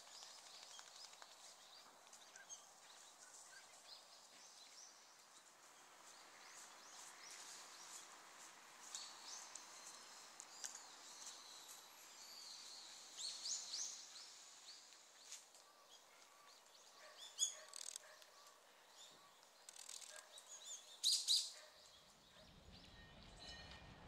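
Faint outdoor ambience with small birds chirping: scattered short high chirps, and two sharper, louder calls in the second half. A low rumble starts near the end.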